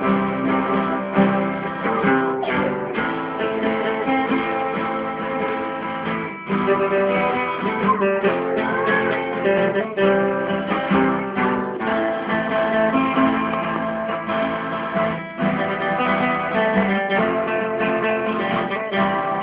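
Acoustic guitar playing an instrumental passage of a song: strummed chords with melody notes.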